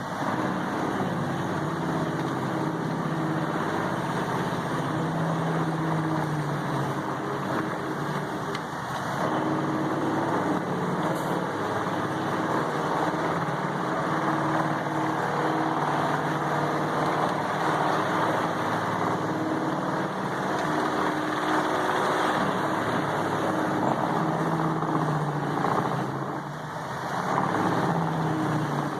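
Vermeer HG6800TX horizontal grinder running under load as it grinds logs, a steady diesel engine drone mixed with dense grinding noise. The level dips briefly twice, near 9 s and again near the end.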